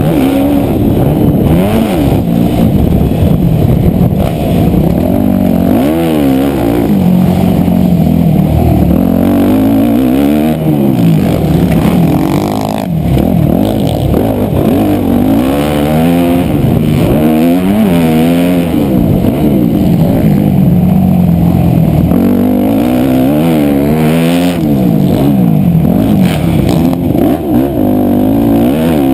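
Dirt bike engine revving up and dropping back over and over as the throttle is opened and closed around a motocross track, its pitch rising and falling every couple of seconds.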